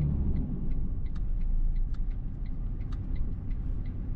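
Road noise and engine rumble inside a moving car, steady and low, with small light clicks and rattles a few times a second.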